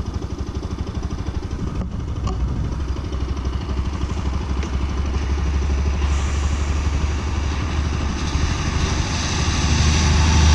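Bajaj Pulsar RS200 motorcycle engine running steadily while riding, with a rush of wind and road noise that builds over the second half.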